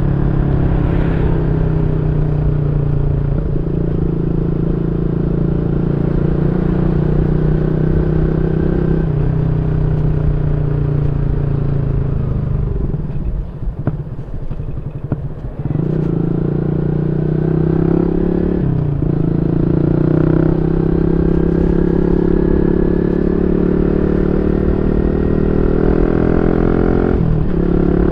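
Yamaha Y15ZR's 150cc single-cylinder engine through a YYPANG SD3 aftermarket exhaust, under way: the note climbs steadily and drops sharply several times as it shifts through the gears. About halfway through, the throttle eases off and the engine goes quieter for a couple of seconds, then it pulls up through the gears again.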